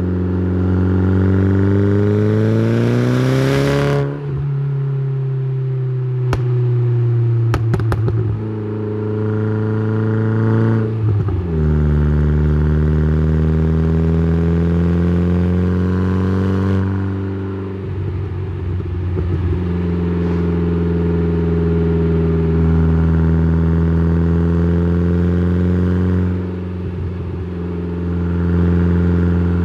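Exhaust note of a tuned Saab 9-3 with a turbocharged 2.0-litre B204 four-cylinder engine, recorded at the exhaust. It revs up under acceleration for the first four seconds, then drops sharply at a gear change. After that it settles into steady cruising, with a few more shifts and lift-offs, and a few sharp cracks a few seconds after the first shift.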